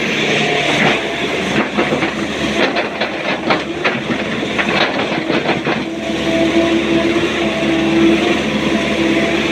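Excavator's diesel engine and hydraulics running under load, with a quick run of clanks and clatters for a few seconds. A steady whine sets in over the engine about two-thirds of the way through.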